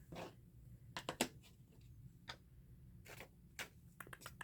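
Scattered faint, irregular clicks and taps from handling small craft tools and paper on a tabletop.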